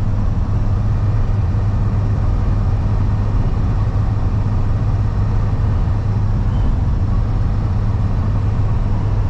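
Steady road and engine noise inside the cab of a Ford F-150 cruising on the highway, a constant low rumble with no changes.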